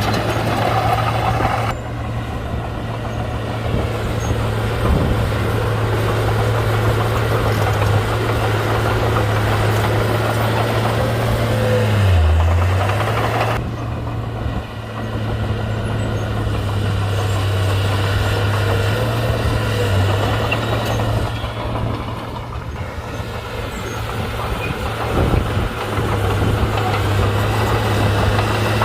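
Komatsu D31-P bulldozer's diesel engine running steadily, its pitch dipping briefly a few times.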